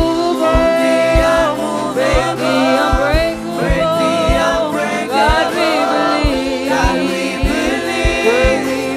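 Worship band and singers performing a gospel worship song, several voices holding and gliding between sustained notes over a steady drum beat.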